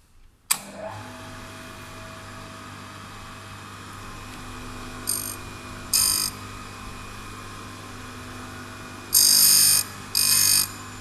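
GD-3 turning tool grinder's motor starting with a sharp click about half a second in, then running with a steady hum. From about five seconds in the grinding wheel hisses against the tool steel in separate passes: two brief touches, then two longer, louder passes near the end.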